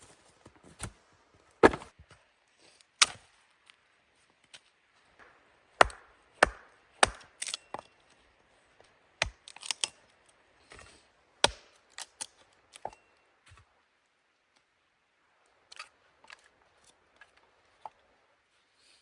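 Wood being chopped with a hand tool: about a dozen sharp, irregularly spaced knocks, with a lull in the last few seconds broken by a few lighter knocks.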